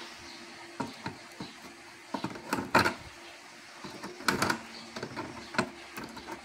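Irregular clicks and knocks of hands and tools handling parts while an electronic device is taken apart to get at its volume control.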